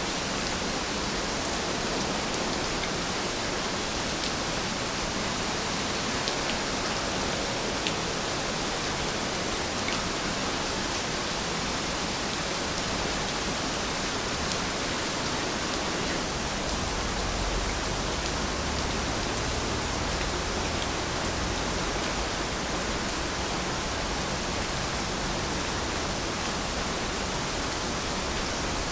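Steady rain falling: a dense, even hiss with scattered faint ticks of single drops.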